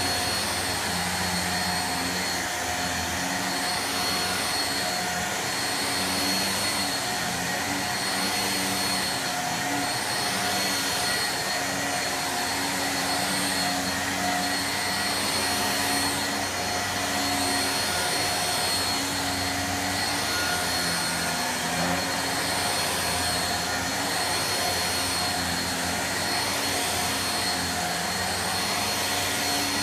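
Shark vacuum cleaner running steadily, a constant motor hum and whine, with a slow swell and fade repeating about every two seconds.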